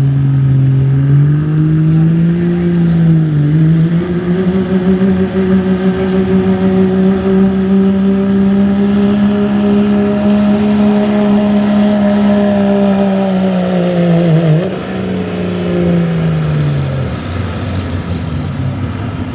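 2007 Dodge Ram's Cummins turbo-diesel engine at full power pulling the sled, its pitch climbing over the first few seconds, dipping briefly, then holding high and steady. About fifteen seconds in the power comes off suddenly and the engine winds down, with a high turbo whistle sweeping downward.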